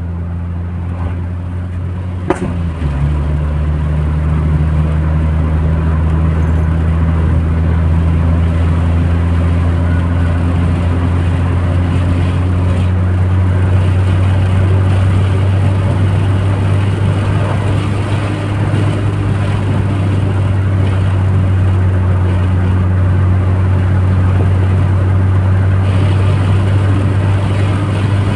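Steady cabin drone of a tuned Audi A3 turbo on the move: a low, even engine hum under road noise. There is a sharp click about two seconds in, after which the drone shifts a little lower in pitch and runs slightly louder.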